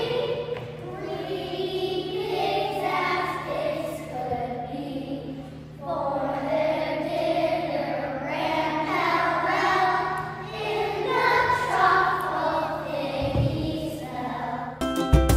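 A group of young children singing a song together. Right at the end the singing stops and instrumental music with sharp plucked notes starts abruptly.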